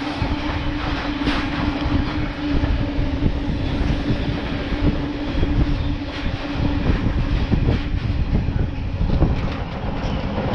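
Freight train passing through the station: a steady rumble of wagons with wheels clicking over rail joints. A steady hum underneath dies away about seven seconds in.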